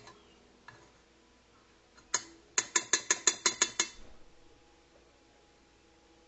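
A fast run of about ten sharp mechanical clicks lasting just over a second, after two single clicks.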